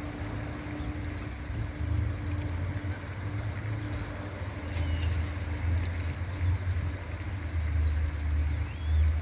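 Low, gusting wind rumble on the microphone with a faint steady hum underneath, and a few faint, brief bird chirps.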